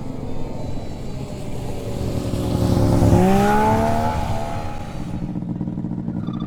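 Snowmobile engine speeding up, its note rising about halfway through as it comes closest and loudest, then easing off.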